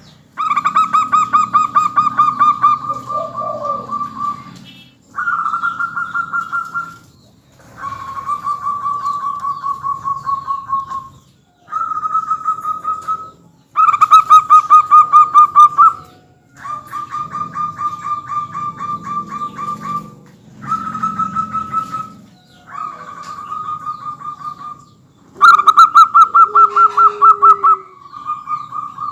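Zebra doves (perkutut) singing: about ten phrases of fast, trilled cooing, each lasting a couple of seconds with short pauses between. The phrases around halfway and near the end are the loudest, and a brief lower call comes in twice.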